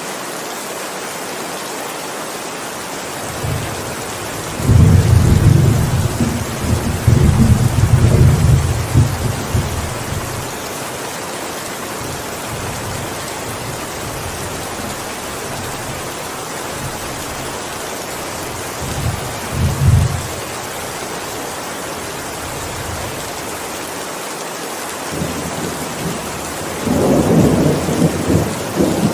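Steady heavy rain with rolling thunder: a long low rumble about a few seconds in, a brief clap near the middle, and another rumble building near the end.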